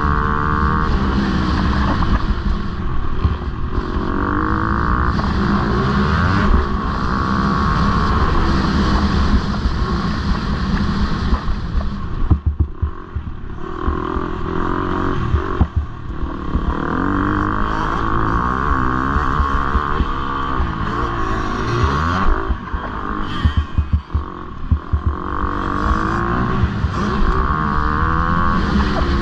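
Motocross bike engine revving hard and rising and falling in pitch as the throttle opens and closes. Near the middle and again later the revs drop away briefly when the throttle is shut off.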